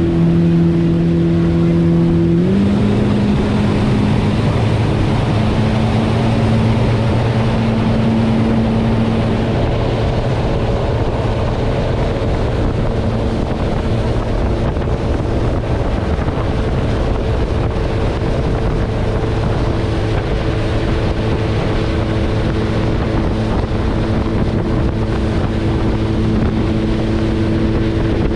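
Watercraft engine running steadily at speed across the lake, with wind blowing over the microphone. The engine note steps up slightly about two and a half seconds in, then holds steady.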